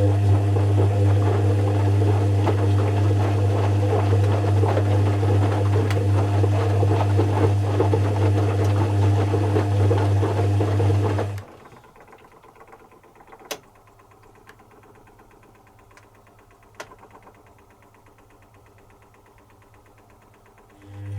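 Zanussi FC1000 compact washing machine's drum motor running with a steady hum and tumbling noise, which stops abruptly about eleven seconds in. A quiet pause follows with a couple of faint clicks, and the motor starts again near the end: the turn-and-pause rhythm of the wash action.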